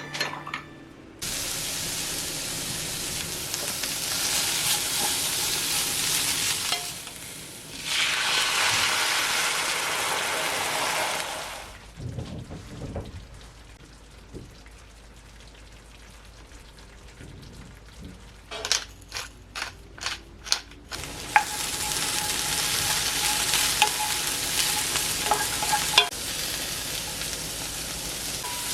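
Food sizzling in a frying pan, in three stretches that start and stop abruptly, with a quieter gap in the middle. During the gap comes a quick run of clicks.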